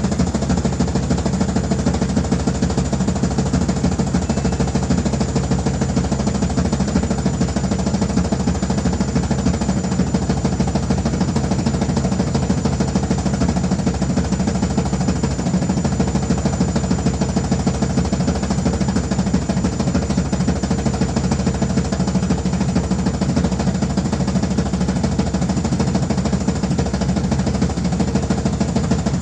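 Washing machine running noisily: a steady motor hum with a fast, even rattle over it, unchanging throughout.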